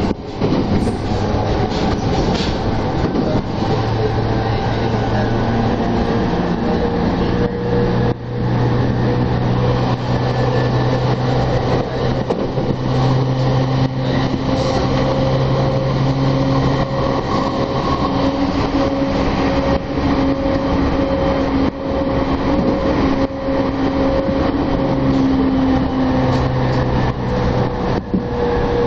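Tokyo Metro Tozai Line commuter train heard from inside the carriage, running at speed on elevated track: a steady rumble with a steady hum, and scattered clicks of the wheels over the rails.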